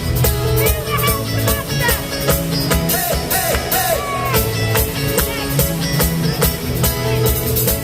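Live rock band playing the opening of a song: drums keeping a steady beat under bass and a sliding lead melody.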